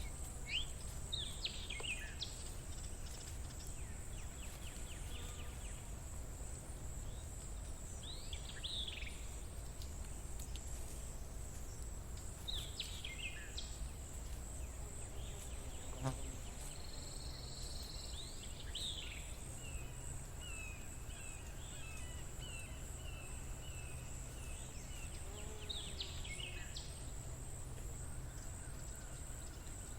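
Outdoor nature ambience: a steady high-pitched insect trill throughout, with birds giving short swooping calls every few seconds and a quick run of repeated notes about two-thirds of the way in. A low steady rumble lies underneath.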